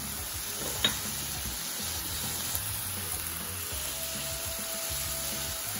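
A pasta-sauce base (zazharka) frying in grapeseed oil in a pan: a steady sizzle, with one light tap about a second in.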